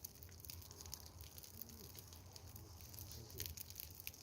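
Large wood bonfire crackling with many irregular sharp pops, over a steady low rumble of wind on the microphone.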